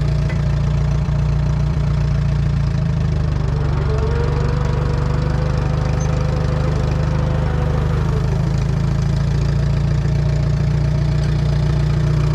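Allis-Chalmers WD tractor's four-cylinder engine idling steadily. A faint whine rises and then falls away in the middle.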